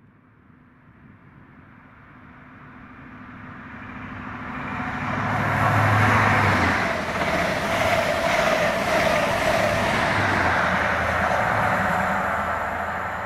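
High Speed Train with Class 43 diesel power cars approaching and running through non-stop at speed. The engine note and the rush of wheels on rail build steadily and peak as the leading power car passes about six seconds in. A sustained rush follows as the Mk3 coaches go by, easing off near the end as the train draws away.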